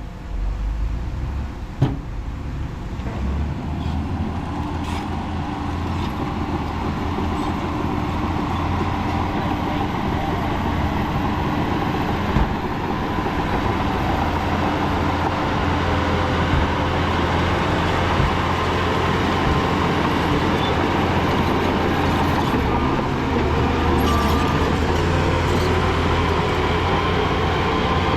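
Heavy diesel earthmoving machinery running under load. The engine noise builds over the first several seconds and then holds steady, with a sharp knock about two seconds in and a smaller one around twelve seconds in.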